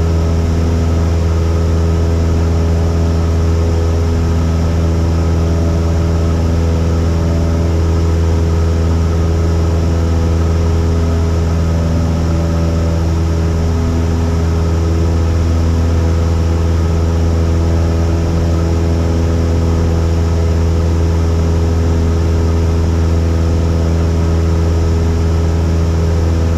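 Cessna 172's piston engine and propeller droning steadily in flight: a loud, even low hum with steady tones above it, heard inside the cabin.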